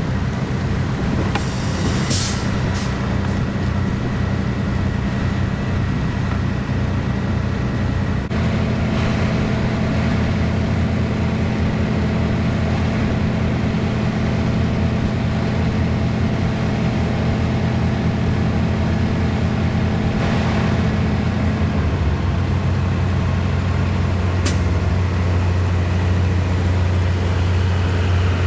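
Semi truck's diesel engine running at low speed while backing into a dock door. The engine note changes about eight seconds in and settles to a lower idle a little past two-thirds of the way through. There are short hisses of air near the start and one near the end.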